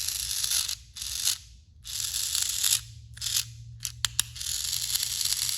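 Small electric motor and plastic gears of a battery-powered toy train engine running with a whirring, gear-grinding sound. The whir drops out briefly a few times, and there are a couple of sharp clicks near the end.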